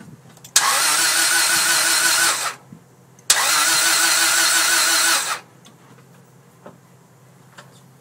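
Starter cranking the 1996 Acura Integra GSR's 1.8-litre DOHC VTEC four-cylinder twice, each try about two seconds long with a steady cranking rhythm, and the engine does not catch. It is a crank-but-no-start that the owner suspects may come from a slipped timing belt, since spark and fuel pressure have been checked.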